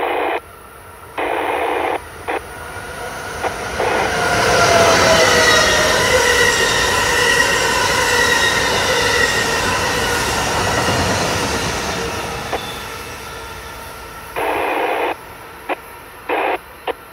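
Amtrak Acela Express trainset passing at speed on electrified track: a rush of wheels on rail with a whine, swelling about three seconds in, loudest through the middle, and fading away. Short, sharp-edged bursts of noise come and go near the start and again near the end.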